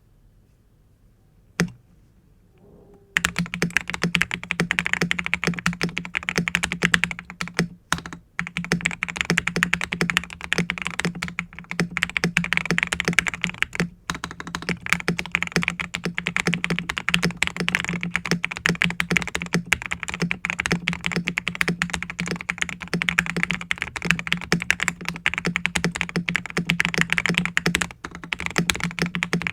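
NT75 mechanical keyboard with lubed Akko Rose Red linear switches on an aluminium plate, XDA profile keycaps, and case foam and tape mods, being typed on quickly and continuously. One lone keystroke comes near the start, and steady typing begins about three seconds in, with brief breaks around 8 and 14 seconds.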